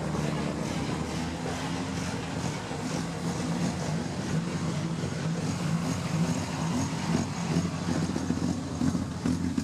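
Rally car engine running at a fairly steady pitch, its note stuttering and wavering in level rather than sweeping up or down.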